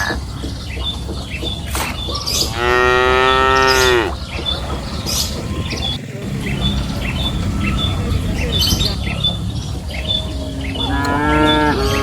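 Cattle mooing: one long moo about three seconds in, and another starting near the end.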